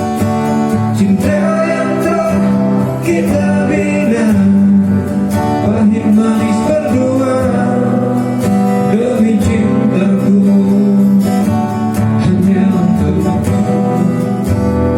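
Acoustic guitar strummed steadily, with a voice singing a slow song over it from about a second in.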